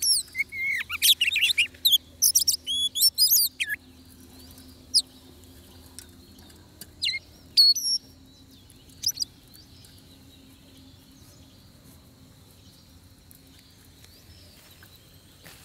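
Oriental magpie-robin singing: a rapid run of varied, gliding whistled phrases for about the first four seconds, then a few scattered single notes until about nine seconds in. A faint steady high tone continues underneath.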